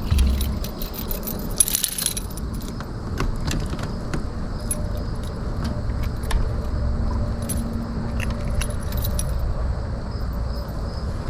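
Light metallic jingling and scattered clicks of fishing tackle being handled while a small bass is unhooked, over a low rumble of handling noise.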